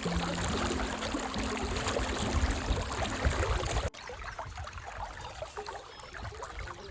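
Steady rush of river water with wind on the microphone, dropping suddenly to a quieter level about four seconds in.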